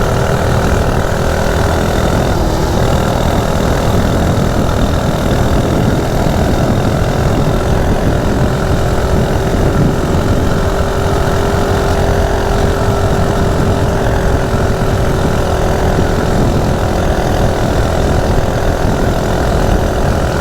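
Coleman CT100U minibike's small single-cylinder engine running at wide-open throttle with its governor removed, holding a steady, unchanging pitch at cruising speed.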